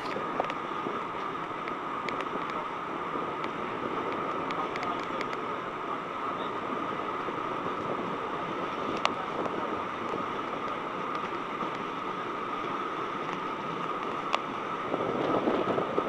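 Running noise of a steam-hauled heritage train heard from an open coach window: a steady rush of wheels and wind with a steady high whine running through it. There are two sharp clicks, and it grows louder near the end as the train runs under a brick bridge.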